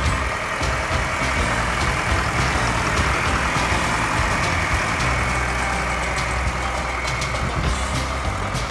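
1965 John Deere 3020 tractor's diesel engine running steadily.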